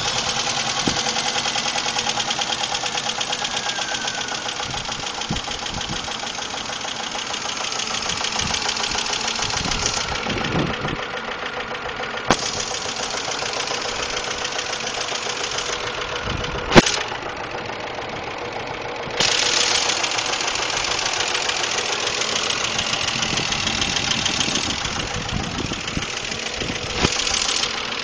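Car engine idling just after a cold start, with a fast, steady ticking from the valve lifters: lifter tick that shows when the engine is cold. The ticking weakens for a while and comes back stronger about two-thirds of the way in, and a couple of sharp clicks stand out.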